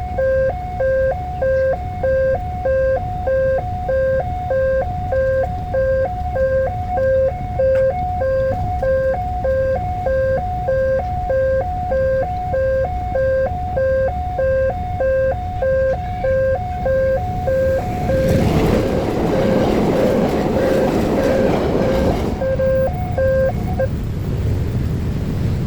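Railway level-crossing warning alarm sounding a steady electronic two-tone signal, a high and a low tone in quick alternation. About 18 s in, a passing train adds a loud rushing rattle for around four seconds. The alarm stops near the end.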